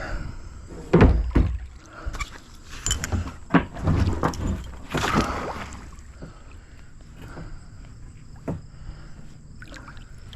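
Kayak on the water: a few hollow knocks against the hull in the first four seconds and a splash about five seconds in, then quieter lapping and the odd faint knock.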